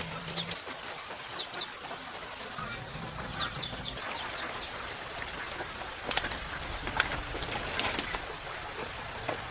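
Short, high chirps from small birds in groups of two or three over the first few seconds, then several sharp clicks and knocks in the second half over a faint low hum.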